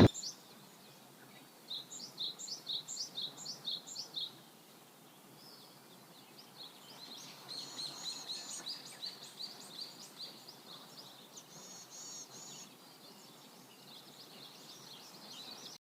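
Small songbirds singing: a quick run of about ten high chirps, then a longer stretch of rapid chirping and trilling that stops just before the end.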